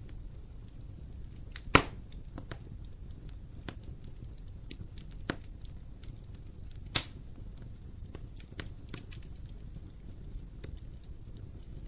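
Wood fire burning in an open fireplace: a low steady rumble of flames with constant small crackles and a few sharp pops, the two loudest about two seconds in and about seven seconds in.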